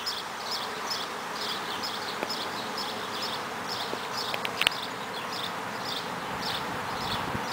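A honey bee swarm buzzing steadily, stirred up after being shaken from its container. A high chirp repeats a few times a second above the hum, and there is one brief click near the middle.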